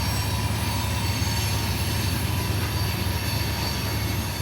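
CSX freight train's diesel locomotives passing, a steady low engine drone with rolling rail noise and a thin, steady high tone over it.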